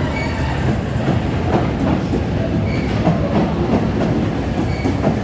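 Paris Métro train running, a steady loud rumble with irregular clacks of the wheels over the track.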